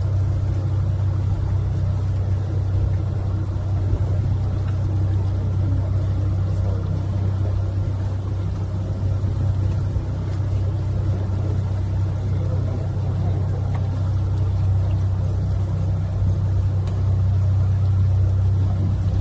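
Tour boat's engine running steadily under way, a low even hum.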